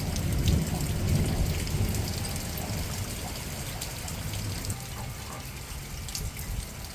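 Rain falling steadily with scattered drips and drops. A low rumble of thunder dies away over the first couple of seconds.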